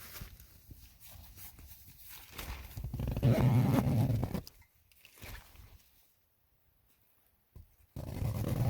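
A man's low, drawn-out groan a few seconds in, and a shorter one near the end.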